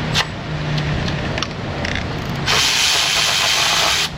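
A few light clicks of a socket and extension being fitted, then a pneumatic air ratchet running for about a second and a half near the end, a loud hiss of exhaust air, loosening a 13 mm bolt. It cuts off suddenly.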